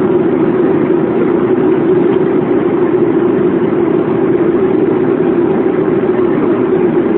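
Steady engine and air noise inside a Boeing airliner's passenger cabin: a constant, unchanging drone.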